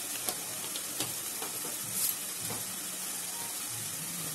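Onion-tomato spice paste sizzling gently in oil in a kadai, a steady hiss with a few faint crackles.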